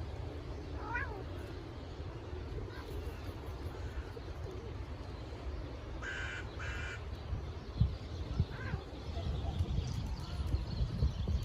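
Bird calls: a short chirp about a second in, then two harsh calls in quick succession around the middle, over a steady low rumble.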